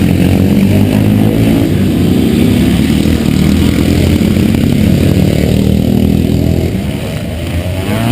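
A loud motorcycle engine running, with low steady engine pitch that dips slightly in loudness near the end.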